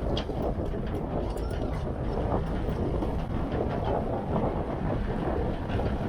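Steady wind rush buffeting the microphone, with water rushing past the hull of a small sailboat under sail in strong, gusty wind.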